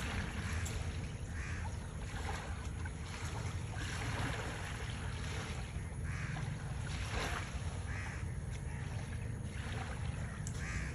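Hornbill giving a series of harsh, cawing calls, about ten in all, over a steady low rumble.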